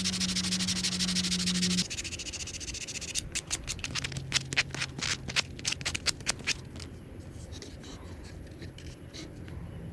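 Power tool working bamboo: a steady motor hum with a hissing cut that stops about two seconds in. This is followed by a run of quick, irregular sharp clicks and taps that thin out, then light rubbing.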